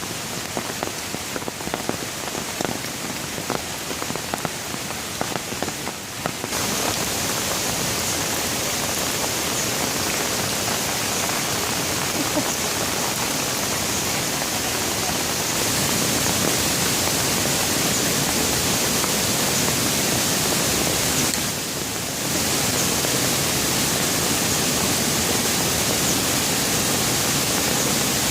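Rain: for the first six seconds or so, separate drops patter sharply on a surface, then it changes suddenly to a dense, steady downpour hiss with no distinct drops, with a brief dip in level about two-thirds of the way through.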